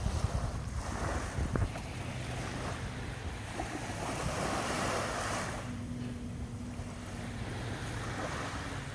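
Surf washing on the beach, with wind buffeting the microphone in the first couple of seconds. A jet ski's engine hums steadily underneath.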